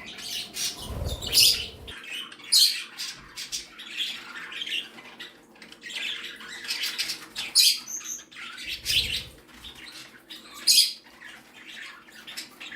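A flock of pet budgies and other small parrots chirping and squawking, many short sharp calls overlapping, with two brief low rumbles about a second in and again near nine seconds.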